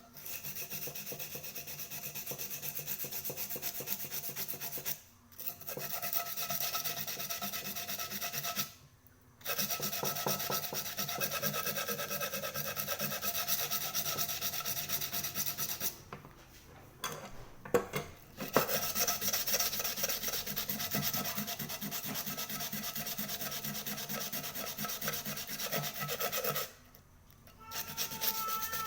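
Steady rasping and rubbing of abrasive repair work on a small metal cauldron. It stops briefly about five and nine seconds in, again around sixteen seconds with a few knocks, and near the end.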